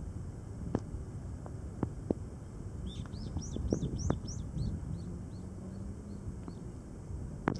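A bird calling in a quick run of about ten short high chirps, starting about three seconds in and fading away, over a steady low rumble of wind on the microphone and a few sharp clicks.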